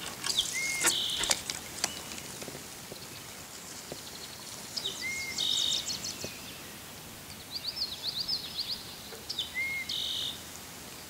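A songbird singing, repeating the same short phrase several times: quick high ticks, an arched whistled note and a short buzz. A few sharp clicks come early on, over a faint even background hiss.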